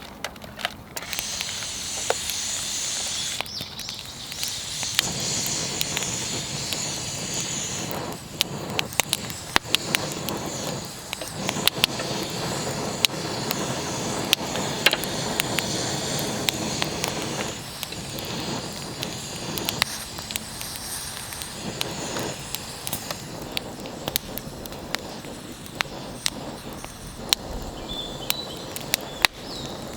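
Wood fire crackling, with a steady hiss under many sharp, irregular pops and snaps.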